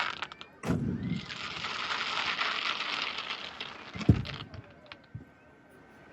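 Fireworks going off: a sharp bang just under a second in, followed by a long crackling hiss as the shell's effect spreads, then another bang about four seconds in and a few small pops.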